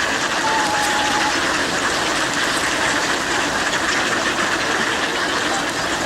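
A steady, dense clamour of many swans and ducks calling together at feeding time, with one drawn-out call standing out about half a second in.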